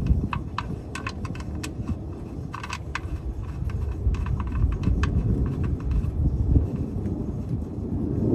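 Irregular light metallic clicks and clinks, as of hand tools being handled during an oil change, over a steady low rumble; the clicks come in loose clusters, busiest in the first three seconds.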